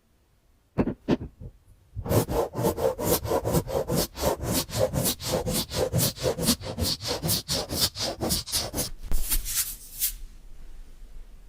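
Rapid scratching strokes, about five a second, after a few slower strokes at the start, dying away near the end.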